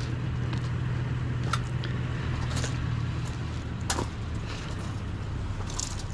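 A vehicle engine idles with a steady low hum, while wire fencing is pushed down into the truck bed, giving a few sharp metallic clinks and knocks.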